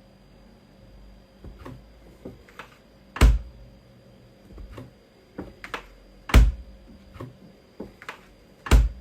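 Irregular taps and knocks, with three loud thumps about three seconds apart.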